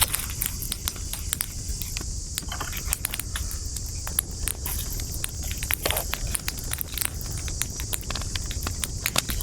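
Wood campfire crackling, with many small irregular pops and snaps over a low rumble of the flames and a steady high hiss.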